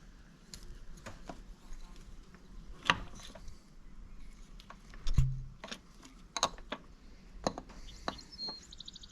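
Scattered light clicks and clinks of metal engine parts and tools being handled during engine reassembly, with two louder knocks about three and five seconds in.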